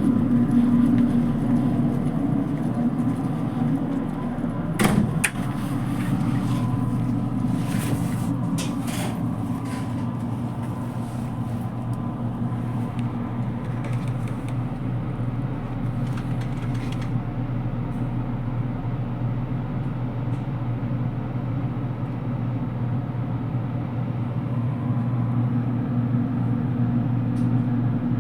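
JR Kyushu 787 series electric train running, heard from inside the car: a steady low hum and rumble of the train on the rails. A sharp knock comes about five seconds in, and a few clicks follow around eight to nine seconds.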